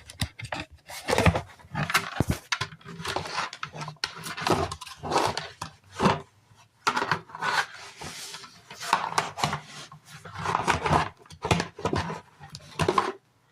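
Hard plastic parts of a Vicks vaporizer being twisted and handled, with irregular clicks and short scraping rubs as the unit is worked open.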